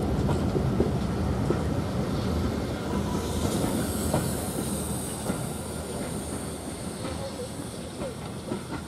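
Passenger coaches of a train rolling past, their wheels clattering and knocking over the rail joints, the sound fading as the train draws away. About a third of the way in, a high wheel squeal comes in and holds, sliding slightly down in pitch.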